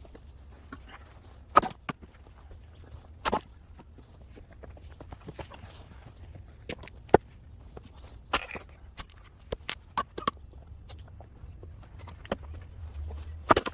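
Cedar wood being split: irregular sharp wooden knocks, the loudest about one and a half, three and a half, seven, eight and a half and thirteen and a half seconds in, with smaller clicks and cracks of the wood between.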